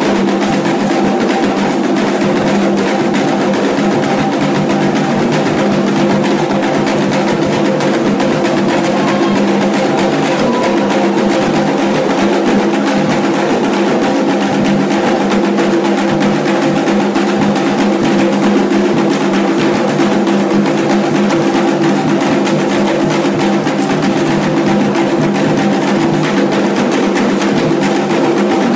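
Candomblé ceremonial drumming: hand drums playing a fast, unbroken rhythm, with steady sustained tones held underneath.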